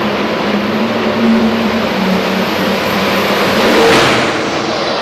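A high-horsepower pulling machine's engine running flat out under load with a high whine; about four seconds in the steady low note stops with a brief surge of noise.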